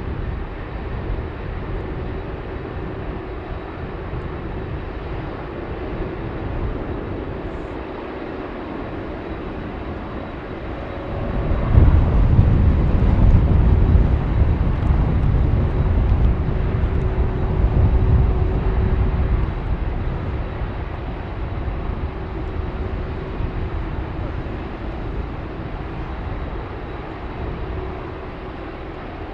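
Airbus A380-842's four Rolls-Royce Trent 900 jet engines on landing approach: a steady drone with a faint held tone that swells about twelve seconds in to a loud low rumble as the airliner passes close, then fades back over the following several seconds.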